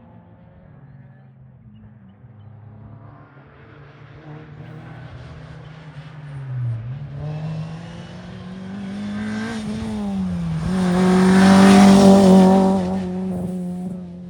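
Historic rally car approaching and passing at speed on a special stage: the engine note rises and falls with lifts and gear changes, dipping about seven and ten seconds in. It is loudest about twelve seconds in as the car goes by, then fades.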